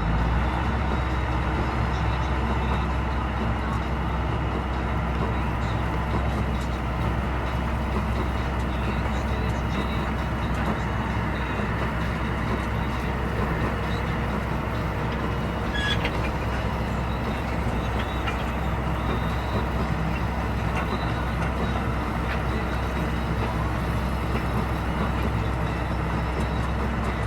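Tractor engine running at a steady, unchanging drone.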